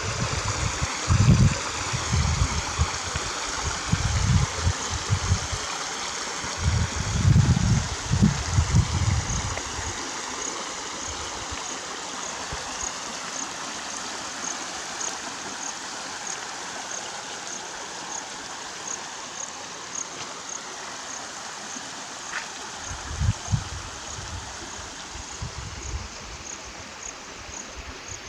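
Stream water running steadily over rocks. Bursts of low rumble come through during the first ten seconds and again near the end, and a faint, regular high ticking runs through the second half.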